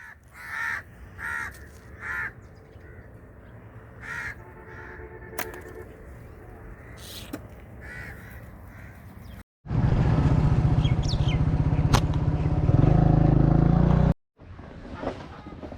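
Harsh, caw-like bird calls repeated several times over the first half. After an abrupt cut, a loud, steady low rumble lasts about four seconds and cuts off suddenly, followed by quieter outdoor sound.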